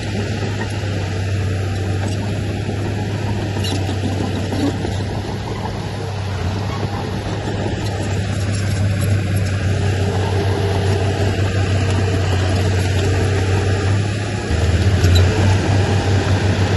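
Heavy diesel engine of earthmoving machinery running steadily under load, growing louder about three-quarters of the way through.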